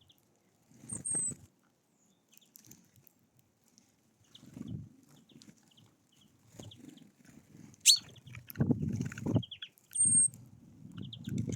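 Birds at a feeder: scattered short high chirps and a couple of thin whistled notes, with bursts of low rustling and wing flutter from birds moving on the feeder. These grow longer near the end, and there is one sharp click about eight seconds in.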